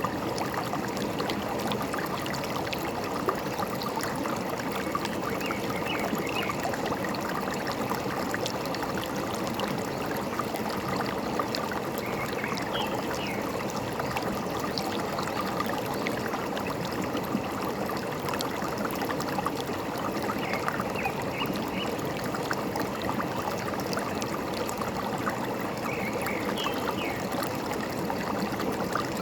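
Forest stream babbling and gurgling steadily, with a few brief, faint bird chirps every several seconds.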